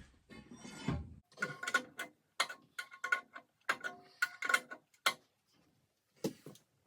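Irregular metallic ratchet clicks, two or three a second, from hand-operated lifting gear working the lathe up or along. They pause for about a second near the end, then start again.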